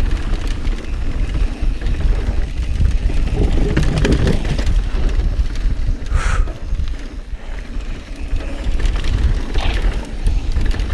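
Mountain bike descending a rough dirt trail: a steady wind rumble on the action-camera microphone over tyre noise and a dense rattle of clicks and knocks as the bike goes over bumps.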